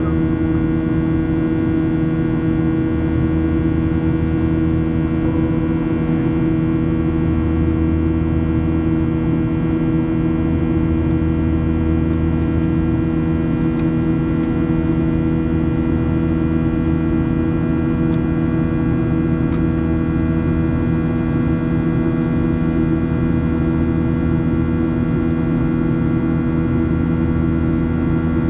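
Steady cabin noise of a Boeing 737-800 in flight: its CFM56 jet engines humming with several steady tones over a deep rumble of airflow.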